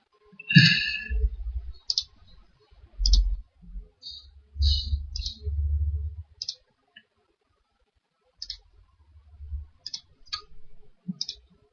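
Computer mouse clicking: about ten short, sharp clicks at irregular intervals, some with a low dull thump or rumble underneath.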